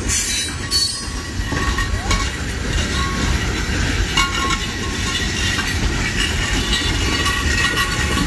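Freight train of open-top hopper cars rolling past close by: a steady rumble and clatter of steel wheels on rail, with faint thin squealing tones from the wheels now and then.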